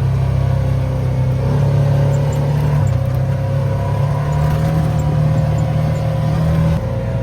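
ATV engine running under way on a dirt trail, a steady hum whose pitch shifts a few times as the throttle changes, dropping slightly just before the end.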